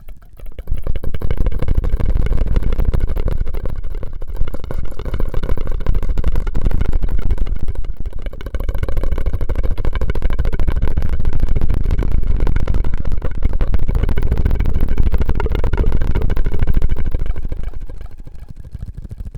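Close-miked ASMR mouth and straw sounds, a loud, dense, crackly rumble right on the microphone, with a short dip near the middle and fading out near the end.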